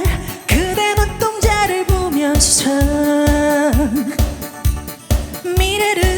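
A woman singing a Korean pop song, holding notes that waver at their ends, over a band backing with a steady dance beat.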